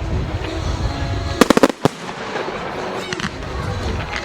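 Fireworks display: a quick cluster of sharp bangs about a second and a half in, with a fainter bang later, over a continuous low rumble and crackle of shells bursting.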